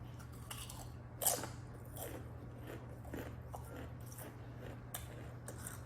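Close-miked chewing of a Subway club sandwich: soft, irregular wet mouth clicks, with one louder bite about a second in.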